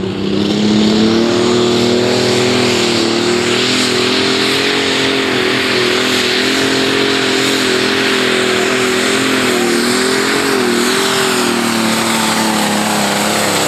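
A Pro Stock pulling tractor's diesel engine, a John Deere rated at about 1800 hp, runs at full power through a pull. It climbs in pitch in the first second, then holds high and steady with a slight wavering.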